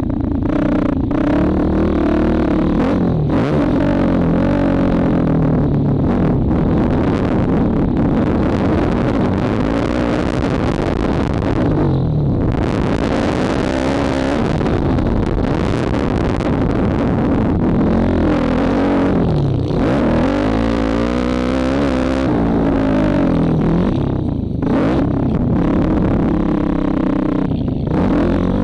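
2004 Honda CRF450R's single-cylinder four-stroke motocross engine, heard from the rider's helmet, revving up and falling back over and over as the rider accelerates, shifts and shuts off the throttle around the track. The throttle shuts off briefly a few times, once about twelve seconds in and twice near the end.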